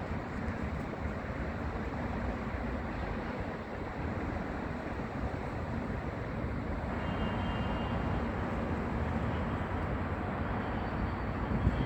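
Steady low rumble of a running vehicle, with a noisy hiss over it.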